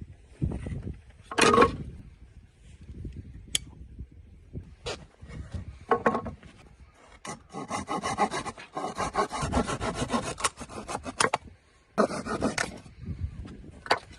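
Firewood being cut by hand: scattered rasping strokes of a blade on wood, then a quick, steady run of strokes lasting a few seconds, a short pause, and another short burst.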